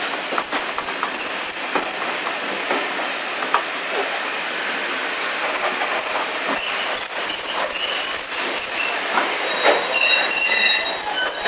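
Train wheels squealing loudly on the rails in a high, steady screech. The squeal breaks off briefly about three seconds in and again near ten seconds, over irregular knocking and rattling from the running gear.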